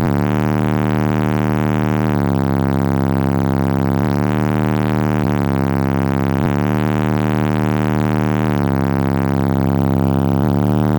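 Four Power Acoustik Mofo 15-inch subwoofers in a truck cab playing a bass-test track at very high volume: a loud, steady droning bass note with a dense buzz of overtones, dipping briefly every two seconds or so.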